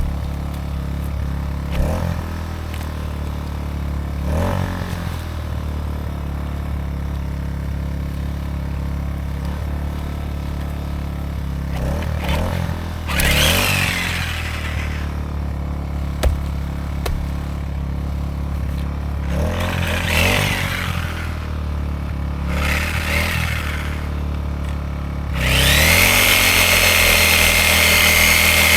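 A small gas inverter generator's engine runs steadily, while a corded 10-amp reciprocating saw starts in several short bursts. About 25 seconds in, the saw runs continuously and louder with a steady whine, cutting through a small tree trunk.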